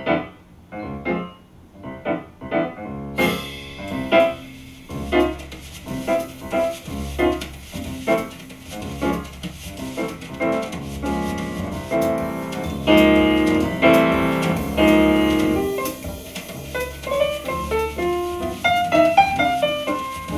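Jazz piano trio recording, with piano over a bass line, played back through a Svetlana EL34 push-pull tube amplifier and a Feastrex 5-inch field-coil full-range loudspeaker. The treble opens up about three seconds in.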